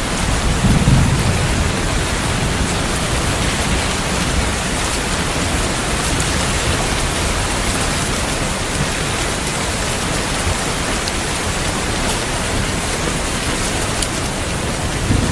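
Steady rain, with a short low rumble of thunder about a second in.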